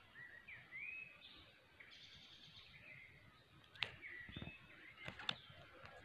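Songbirds chirping faintly, a string of short rising and falling calls, with a few sharp clicks about four and five seconds in.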